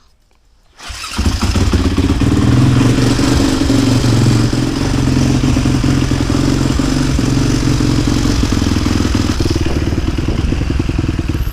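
Husqvarna SMR 450's single-cylinder four-stroke engine started cold with the choke pulled. It catches about a second in and then idles steadily on choke, cutting off suddenly at the end.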